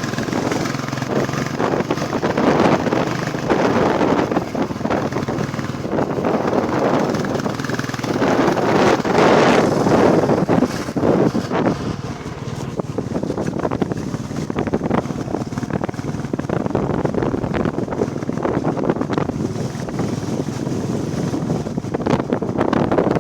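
Wind buffeting the microphone of a moving motorcycle, swelling and easing every few seconds, over the steady running of a Royal Enfield Classic 350's single-cylinder engine.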